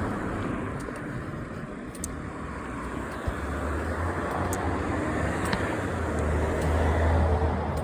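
Road traffic: cars driving past on a street, a steady rush of tyre and engine noise that swells to its loudest about seven seconds in.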